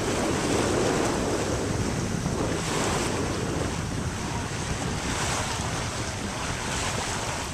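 Wind buffeting the microphone and water rushing past the hull of a moving boat, a steady rushing noise that swells in the first second.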